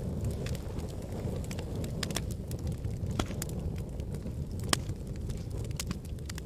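Wood fire burning in a fireplace: a steady low rumble of flames with irregular sharp crackles and pops, one louder pop about two-thirds of the way through.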